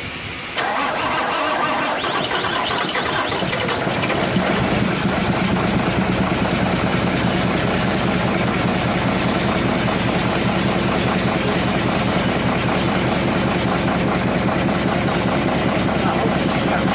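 Freshly overhauled diesel engine of a Mitsubishi Fuso dump truck, cranked by its starter and catching about three seconds later, then idling steadily.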